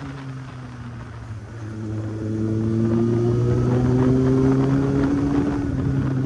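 Kawasaki Z800's inline-four engine pulling under throttle, its pitch climbing slowly and getting louder from about a second and a half in as the motorcycle accelerates.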